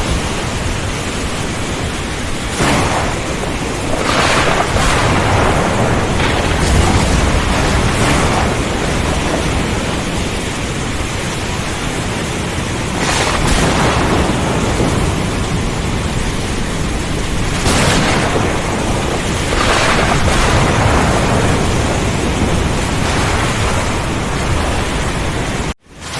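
Heavy rain pouring steadily under repeated thunder, with about eight loud cracks and rumbles swelling out of it over the span. Near the end the sound cuts out suddenly for a split second.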